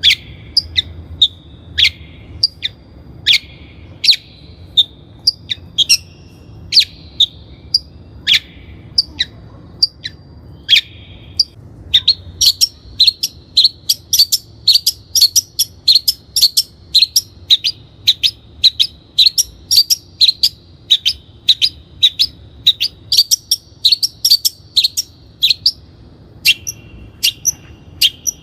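Long-tailed shrike singing: loud, sharp, scratchy notes spaced out at first, then from about halfway in a fast run of repeated notes, easing off again near the end.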